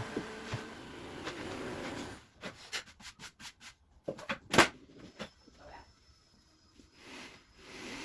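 Woodworking at an almirah: a steady background noise fades after about two seconds, then a run of short, irregular strokes on wood follows, the loudest about halfway through.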